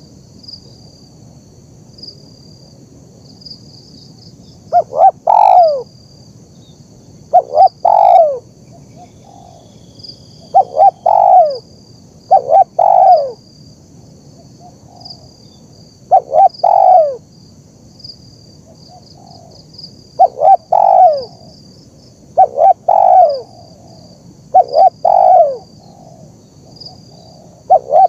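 Spotted dove (terkukur) cooing: phrases of two short notes and a longer, falling coo, repeated about every two to three seconds from about five seconds in. Insects chirr steadily in the background.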